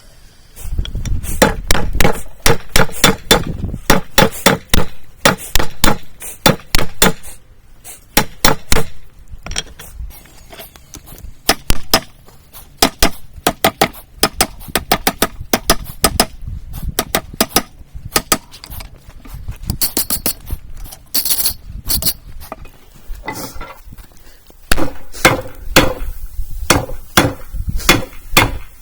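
Hammer blows on a hot railroad spike, forge-welding a high-carbon steel edge into it: sharp strikes of about three a second in runs of several seconds with short pauses. A brief high hiss sounds about twenty seconds in.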